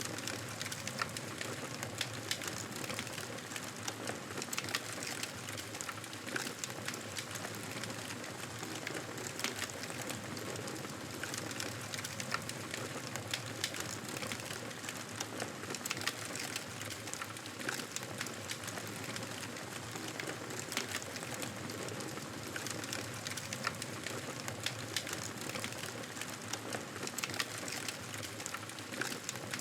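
Campfire burning steadily, a constant hiss dotted with many small crackles and pops.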